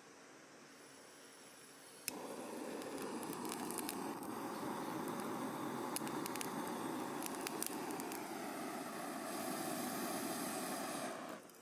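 Cooking over a wood fire in a small firewood grill: a steady hiss with scattered sharp crackles. It starts suddenly about two seconds in and stops abruptly near the end.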